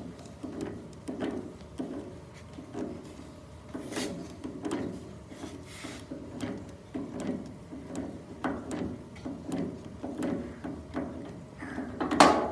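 Rhythmic scraping or sliding strokes, about one and a half a second, like a tool worked back and forth on metal, with one loud sharp knock near the end.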